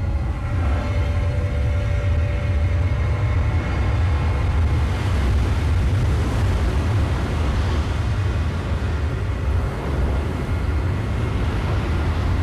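Disaster-film sound effects: a loud, continuous deep rumble with a wash of noise over it, with faint held tones of the score beneath during the first few seconds.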